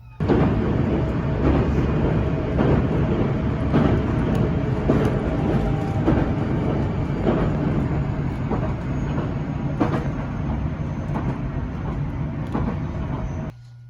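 Limited Express Fujikawa train running at speed: a loud, steady rumble of wheels on rails with frequent short clicks from rail joints. It starts abruptly and cuts off suddenly near the end.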